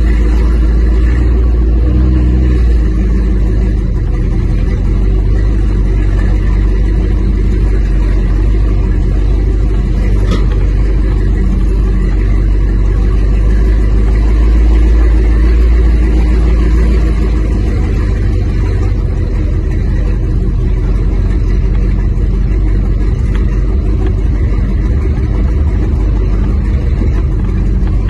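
1973 Chrysler station wagon's 7.2-litre 440 V8 running steadily at low road speed, heard from inside the car as a deep, low engine note. The low rumble eases slightly about two-thirds of the way through.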